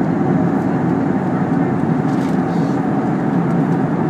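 Steady cabin noise of a Fokker 70 airliner in flight: the even hum of its rear-mounted Rolls-Royce Tay turbofans mixed with the rush of air along the fuselage.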